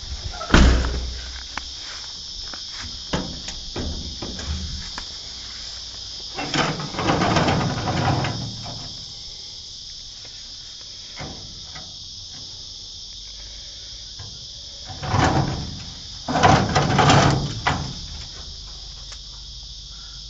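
Steady high chirring of crickets, broken by a sharp knock about half a second in and by a few stretches of rustling and scraping, the loudest near the end.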